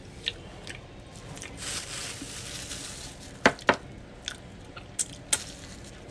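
Close-up mouth sounds of someone chewing a Big Mac: soft wet squishing with several sharp lip smacks. The loudest are two in quick succession about three and a half seconds in.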